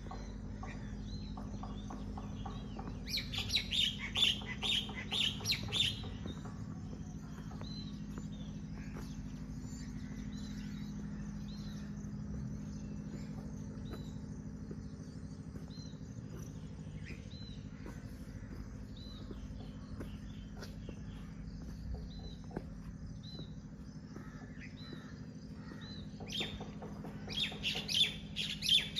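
Small birds chirping: a burst of rapid, high chirps about three seconds in and again near the end, with scattered single calls between, over a steady low hum.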